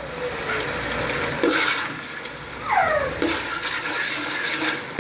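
A spoon stirring and scraping through thick sweet and sour chicken in a cooking pot, with strokes against the pot about every second and a half. A brief falling tone comes in a little before halfway through.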